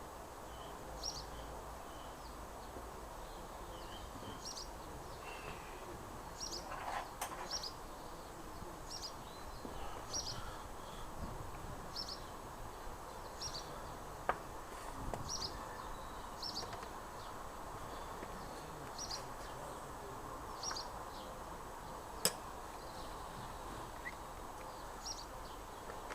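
A bird calling repeatedly, one short high chirp about every second and a half, over a steady outdoor background hiss. A few sharp clicks stand out now and then, the loudest about two-thirds of the way in.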